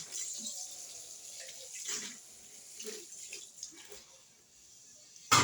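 Water running from a kitchen tap into a sink during dishwashing, with a few light knocks of dishes. The water thins out toward the end, and a sharp, loud knock comes just before the end.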